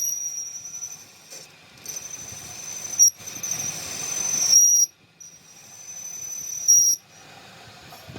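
A high-pitched hissing whistle that starts and stops in bursts. Each burst grows louder over about a second and a half and then cuts off sharply, three times in all.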